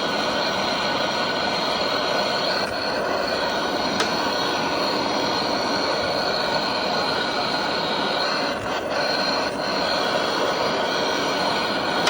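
Heat gun blowing steadily with a constant motor noise, heating a seized bolt on a washing machine's drum spider to loosen it.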